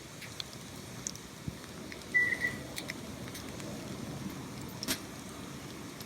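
Steady running water with scattered small drips and splashes, and one short high chirp about two seconds in.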